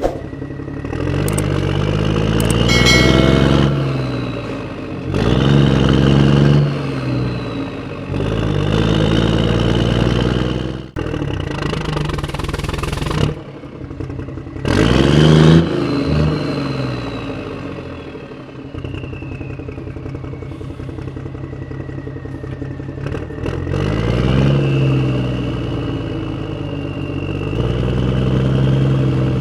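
An engine or motor revving up and falling back several times over a steady run, with a high whine gliding slowly up and down above it.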